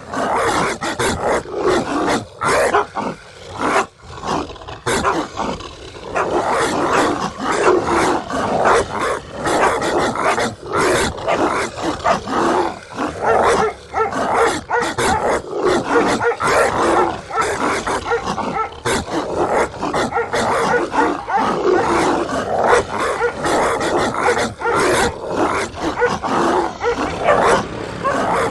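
Several dogs barking angrily, the barks overlapping in a dense, nearly continuous volley that thickens after the first few seconds.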